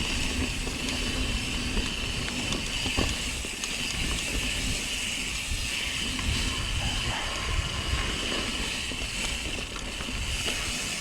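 Mountain bike rolling along a dirt singletrack, heard from an onboard action camera: tyre and trail noise with wind rumble on the microphone, over a steady high whir.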